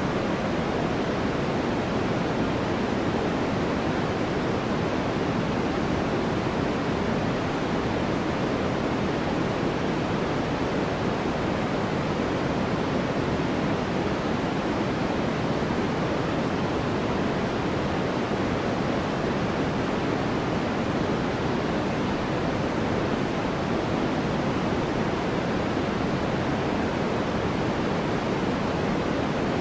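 Steady sleep noise: an even, unchanging hiss, fuller and softer than a bright white hiss because most of its weight sits in the low and middle range.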